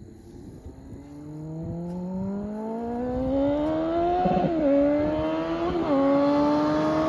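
2008 Kawasaki Concourse 14's inline-four engine, fitted with a Two Brothers exhaust, accelerating hard and getting louder as it approaches. Its pitch climbs steadily and drops at each upshift, twice, about four and six seconds in.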